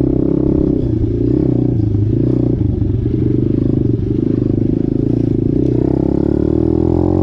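125cc dirt bike engine running under throttle, its revs climbing over the last two seconds or so.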